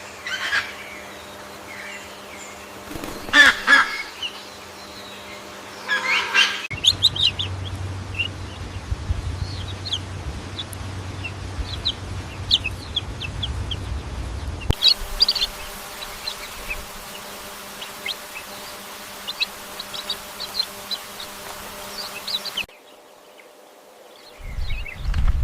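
A run of separate animal-sound clips cut together. Ducks quack loudly a few times in the first six seconds; then come stretches of small birds chirping, one over a low hum. The recordings change with abrupt cuts, there is a short quiet gap near the end, and a loud low sound begins just before the end.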